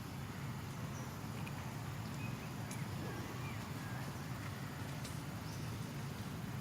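Steady low outdoor rumble with a few faint, short high chirps and light clicks over it.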